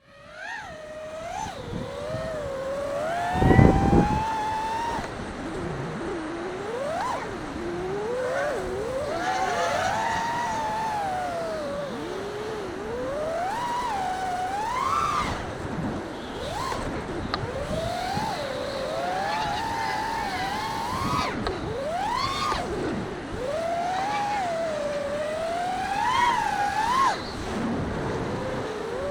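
A 5-inch FPV freestyle quadcopter's T-Motor Pacer 2306 1750kv brushless motors and props whining, the pitch swooping up and down continuously as the throttle is punched and released. A brief low rumble stands out about three and a half seconds in.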